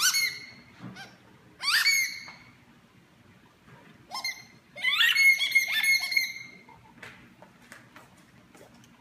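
A dog's rubber squeaky toy ball squeaking in several short bursts as the dog chews it, with a longer run of rapid squeaks about four to six seconds in.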